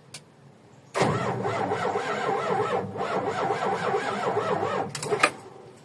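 Motorcycle engine cranking on its electric starter for about four seconds without catching. It is a no-start that the owners trace to the relay and the battery. A couple of clicks follow near the end.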